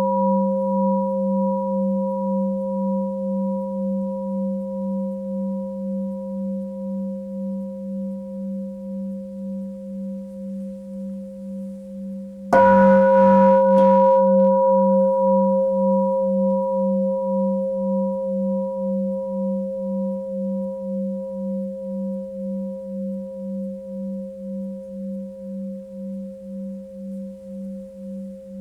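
Tibetan singing bowl ringing with a deep tone and higher overtones, pulsing in a slow wobble of about two beats a second as it fades. It is struck again about halfway through, rings out loud, and slowly dies away.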